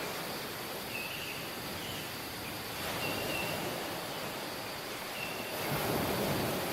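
Surf washing on a tropical beach, a steady wash of waves that swells again near the end. A bird gives short, thin high chirps a few times over the surf.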